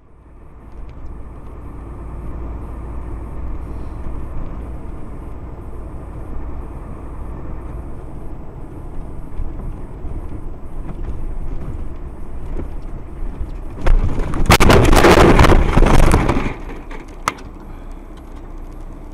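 Steady low rumble of a car driving, then about fourteen seconds in a loud crunching, crackling noise lasting about two and a half seconds, typical of a collision, followed by a single sharp click.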